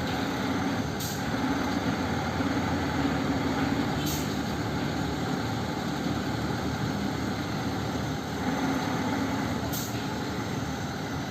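Mitsubishi Fuso Super Great truck's diesel engine running steadily, with three short hisses about a second, four seconds and ten seconds in.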